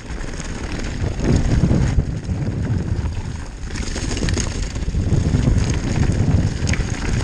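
Downhill mountain bike running fast over a rocky trail: an uneven wind rumble on the microphone, with the bike and tyres rattling over stones and scattered sharp clicks.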